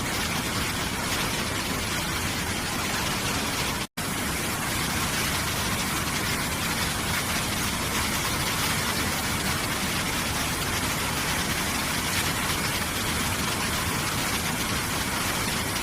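Waterfall: water rushing steadily, with a momentary break to silence about four seconds in.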